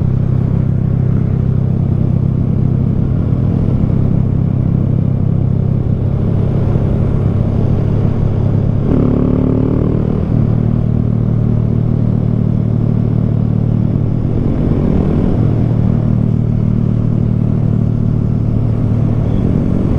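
Honda Grom minibike engine running steadily under way, a constant low engine note with a brief change in pitch about nine seconds in.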